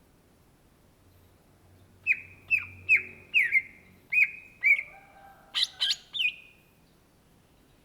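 Greater green leafbird (cucak ijo) singing: a run of six sharp, down-sweeping whistled notes about two a second, then three quicker, louder and more complex notes.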